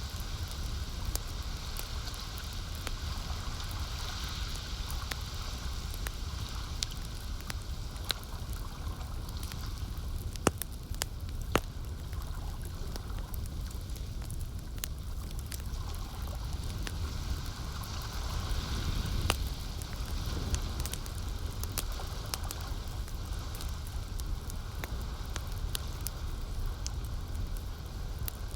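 Campfire crackling with many scattered sharp pops, two louder ones near the middle, over a steady wash of lake water lapping.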